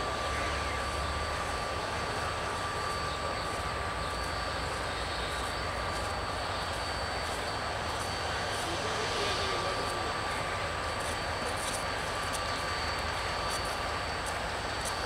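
Steady, distant rumbling drone with a constant high whine from a DEMU diesel commuter train approaching slowly.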